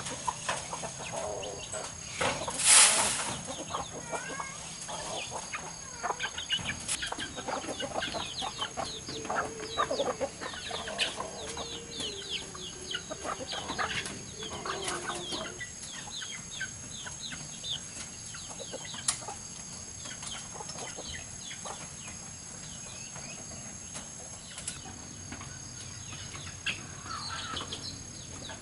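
Domestic chickens clucking and calling, with a dense run of short high calls through the middle. There is a brief loud rustle, like wings flapping, about three seconds in.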